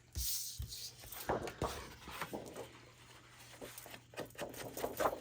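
Light handling of paper and craft materials on a tabletop: a short papery swish near the start, then scattered soft taps and clicks.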